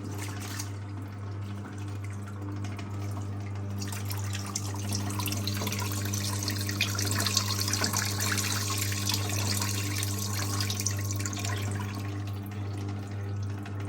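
Power wringer on a 1958 Hotpoint Empress washing machine squeezing a towel, with water streaming and splashing out of it back into the tub, heaviest in the middle. Under it the machine's electric motor runs with a steady low hum.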